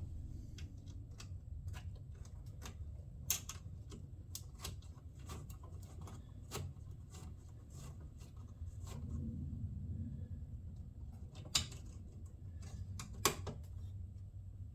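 Small clicks and taps of a bolt, washer and tools being handled while trying to start a bolt by hand, with a few louder clicks about 3, 11 and 13 seconds in, over a low rumble.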